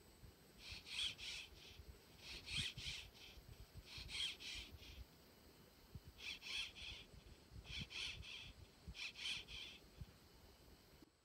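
A bird calling outdoors: six calls, each under a second long, spaced about one and a half to two seconds apart.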